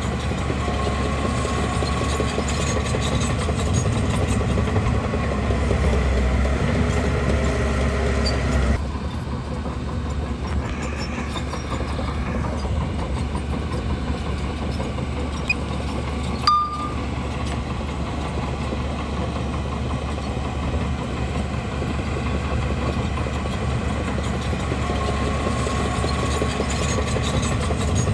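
Crawler bulldozer working: the diesel engine runs steadily and the steel tracks clatter. The sound changes abruptly about nine seconds in, and a single sharp knock comes just past halfway.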